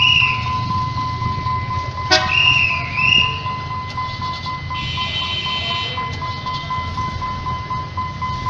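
A vehicle horn sounds once for about a second, a bit under halfway through, over a steady low rumble and a continuous high, thin tone.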